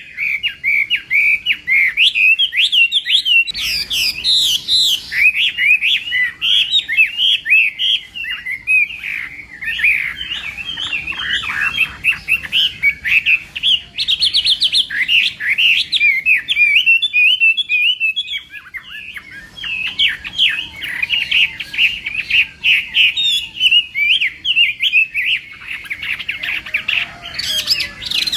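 Chinese hwamei (họa mi) singing a long, fast run of varied whistled notes, thinning briefly about two thirds of the way through.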